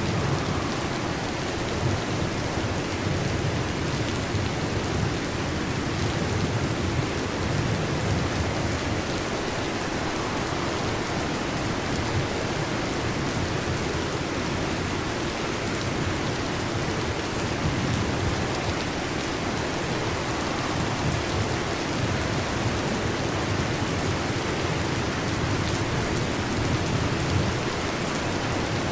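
Heavy rain falling steadily on a metal roof, with low rumbles of thunder swelling and fading several times.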